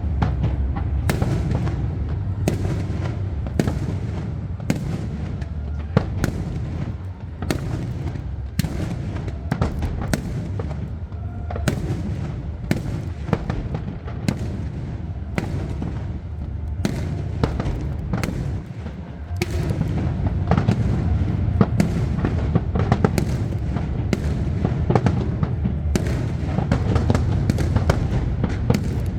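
Aerial fireworks display: shells bursting in quick succession, sharp bangs more than once a second over a constant low rumble of overlapping booms.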